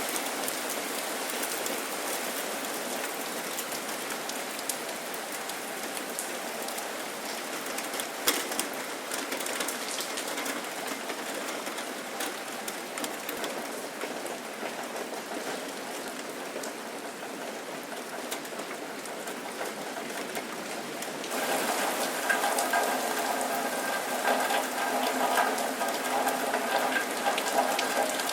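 Steady rain falling, with many individual drops pattering on a hard surface. About 21 seconds in it turns louder, with closer, denser drop hits.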